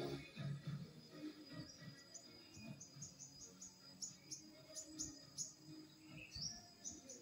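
Small birds chirping: a run of short, high chirps, several a second, over a faint steady high tone.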